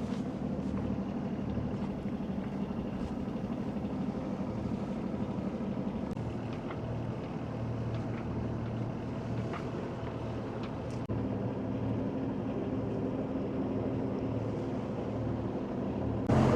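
A sailboat's engine running steadily with a low, even hum as the boat motors into a marina.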